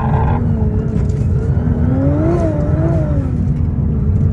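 Nissan R35 GT-R's twin-turbo V6 engine running at steady revs under load. About two seconds in, the revs climb, dip, rise briefly again and then settle back.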